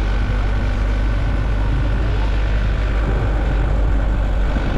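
Steady rumble of a moving vehicle: engine and road noise at an even speed.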